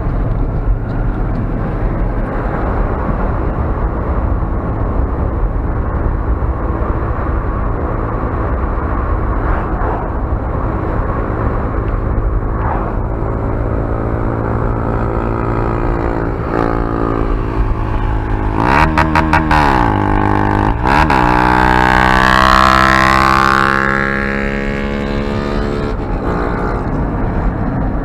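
Honda CG Fan 150's single-cylinder four-stroke engine through a loud aftermarket V3 exhaust, running steadily. From about two-thirds of the way in it is revved hard against the rev limiter, stuttering as the limiter cuts in, its pitch dipping and climbing, then it settles back to steady running.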